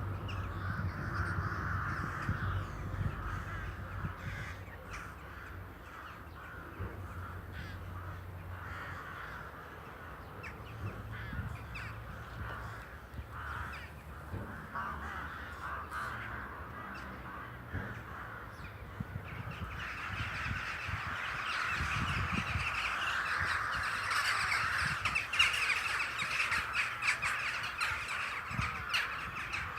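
A large flock of crows cawing together in a dense, overlapping clamour that swells louder about two-thirds of the way through. A low steady hum lies underneath in the first half.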